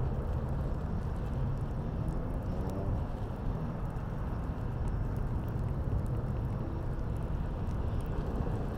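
Steady low rumble of city traffic and wind on an open rooftop, with the faint, scattered crackle and pops of an outdoor fire.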